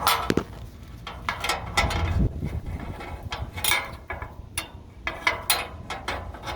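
Irregular metal clicks and clinks of bolts and mounting hardware being handled and fitted into a truck's running-board bracket track.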